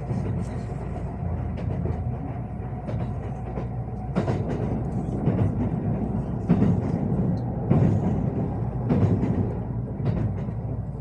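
Kintetsu 80000 series Hinotori electric train running through a station with a steady low rumble, its wheels clacking over rail joints in a series of knocks about a second apart.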